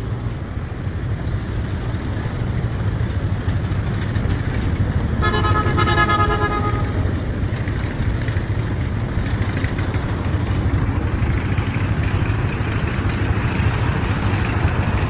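Excavator's diesel engine running with a steady low rumble. About five seconds in, a horn sounds one toot lasting a second or two.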